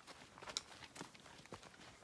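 Faint, irregular footsteps of hikers walking a dirt trail, a few scattered crunches and ticks.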